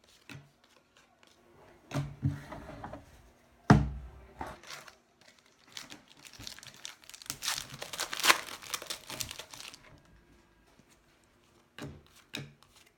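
A baseball card pack's foil wrapper being torn open and crinkled, the crinkling densest for a few seconds past the middle. Earlier there are a couple of knocks, one a louder thump, and a few light clicks come near the end.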